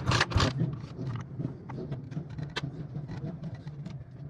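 Small motorcycle engine running steadily, with sharp clicks and taps over it, louder in the first half-second.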